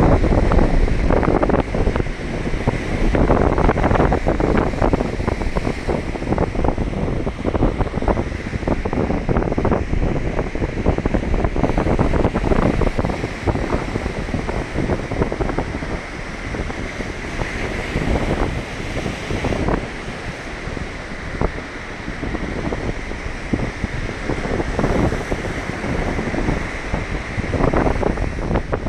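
Baltic Sea surf washing onto the shore, with wind buffeting the microphone in uneven gusts.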